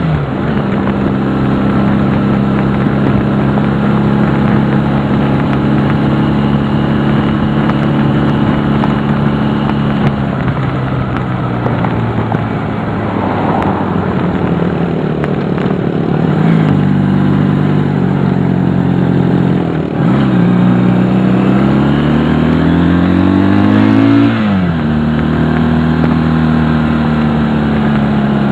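Honda CD175 twin-cylinder motorcycle engine running on the move. The engine note holds steady, dips twice a little over halfway as gears change, then rises as the bike accelerates and drops at another gear change near the end.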